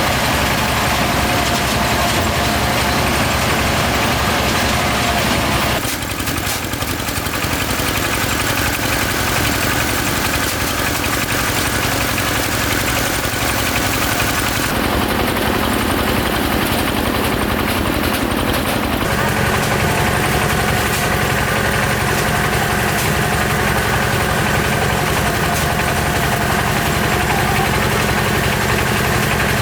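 A loud engine running steadily, its tone changing abruptly a few times.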